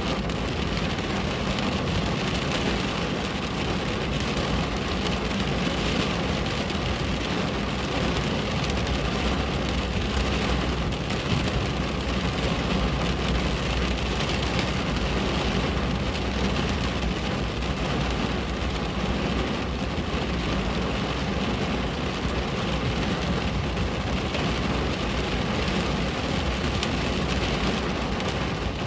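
Steady heavy rain drumming on a window, an even hiss with a constant low rumble underneath.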